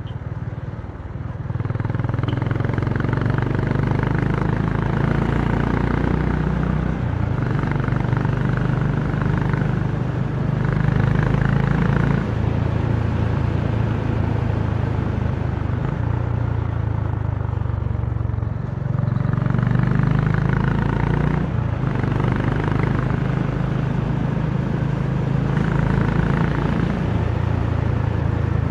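Honda CB350's single-cylinder engine and exhaust running under way, heard from the rider's seat. The engine pitch holds steady, then shifts up or down in steps several times as engine speed changes.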